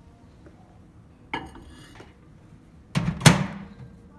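A mug clinks as it is set down in a microwave oven about a second in. The microwave door then shuts with a loud clunk near the end.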